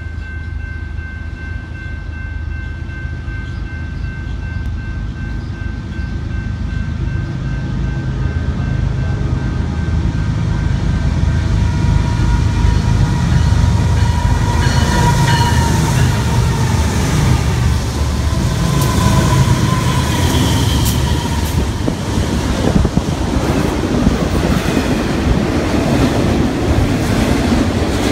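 BNSF diesel freight locomotives approaching and passing with a deep engine rumble that grows louder to a peak about halfway through. Then double-stacked container well cars roll by with steady wheel clatter.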